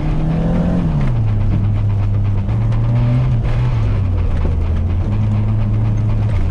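BMW E30 engine running under changing throttle: the revs fall away about a second in, then rise and drop in a few steps.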